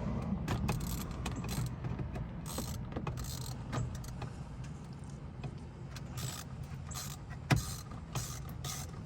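Socket wrench with an extension working a bolt out of a truck's steering column: scattered short metallic clicks and knocks over a low steady hum.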